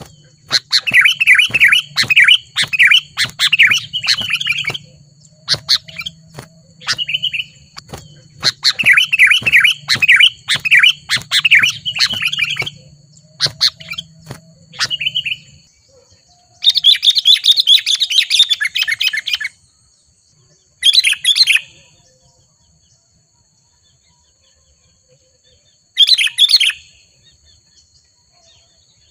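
Sooty-headed bulbul (kutilang) calling in loud chattering bursts of rapid repeated notes: two long runs in the first half, then shorter bursts with pauses between. This is the agitated, rival-challenging calling of a wild bulbul.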